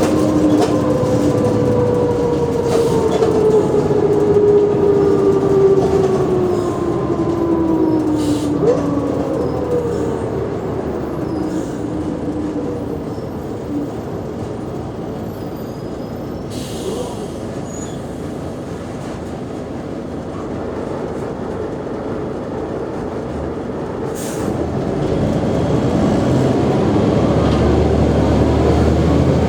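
Mercedes-Benz O345G articulated bus's drivetrain whining and falling in pitch as the bus slows over the first ten seconds, running more quietly for a while, then rising in pitch again as it pulls away near the end, over a steady low rumble. The uploader hears signs of wear in this bus.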